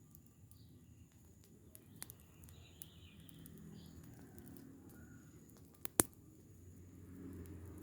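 Open rubbish fire burning, with a few sharp pops over a low rumble; the loudest pop comes about six seconds in. Faint bird chirps sound around three seconds in.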